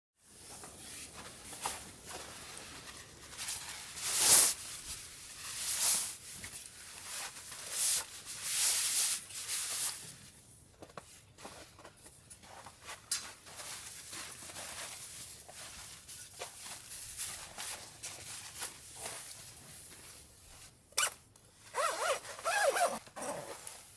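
Synthetic fabric rustling and rasping in irregular bursts, like a zipper being worked, as camping gear is handled. A few short squeaks come near the end.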